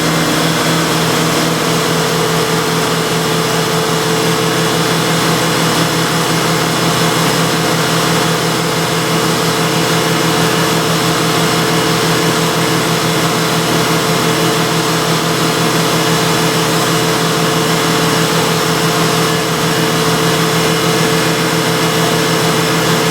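The 1999 Dodge Avenger's 2.5-litre V6 is running steadily at a raised, held RPM. Its crankshaft position sensor air gap has just been reset, which the technician thinks has fixed the intermittent misfire.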